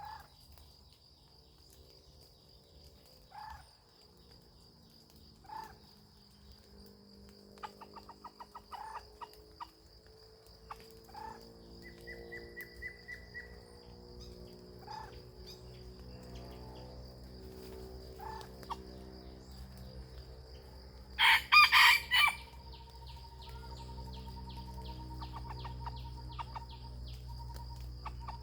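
Junglefowl rooster crowing once, loudly, about 21 seconds in, with short clucks scattered through the rest. A steady high insect drone runs underneath.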